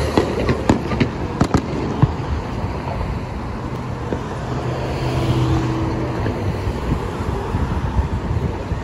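Distant fireworks cracking and popping, several sharp reports in the first two seconds, over the steady noise of freeway traffic.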